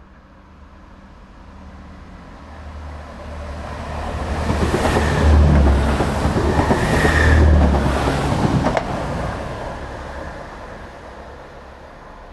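A Chiltern line diesel train passes the platform. It grows louder with a deep engine hum and rail noise, goes loudly by for about four seconds with a single sharp click near the end of the pass, then fades into the distance.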